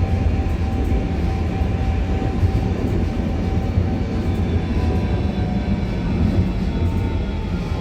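Tram running with a steady low rumble and a steady thin whine; near the end fainter whines slowly rise in pitch.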